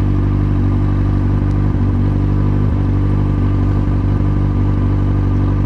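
Kawasaki Z750's inline-four engine with an open, straight-through exhaust idling steadily.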